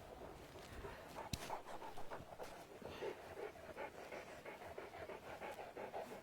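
A dog panting quickly and rhythmically, several breaths a second, close to the microphone, with one sharp click about a second and a half in.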